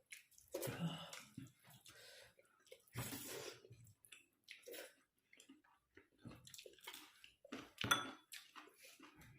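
Wet mouth sounds of a person eating, chewing and slurping, in a few short separate bursts.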